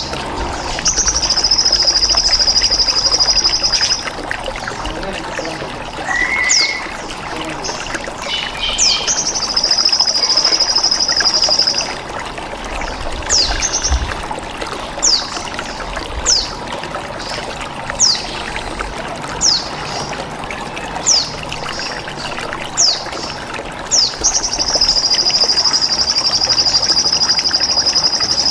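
Bird-training mix: trickling, pouring water runs underneath sharp, high descending chirps about every second and a half. Three times a long, steady, high buzzing trill lasts three to four seconds, typical of a bren cicada.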